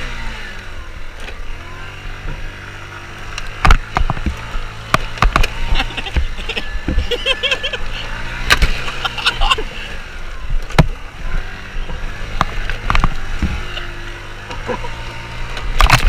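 Motorcycle engine running, its pitch rising and falling a few times, with sharp knocks and clatter throughout.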